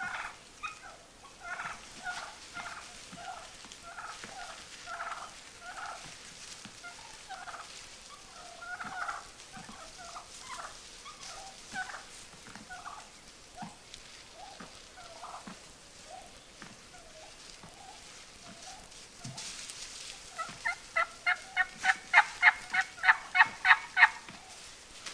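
Gould's wild turkeys calling close by with many short, scattered calls. About twenty seconds in, this builds into a loud run of evenly spaced calls at about four to five a second, lasting some four seconds.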